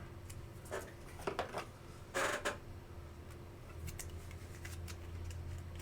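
Faint rustles and light clicks of trading cards being handled and slid into sleeves, the loudest a short brushing scrape about two seconds in, over a steady low hum.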